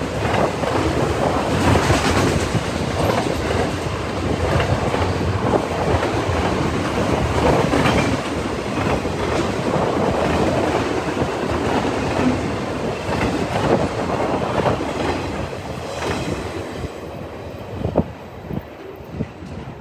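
Freight cars of a CN train rolling past at speed: a loud, steady rumble of steel wheels on rail with repeated clickety-clack over the joints. About three-quarters of the way in the noise eases off, leaving a few separate wheel clicks.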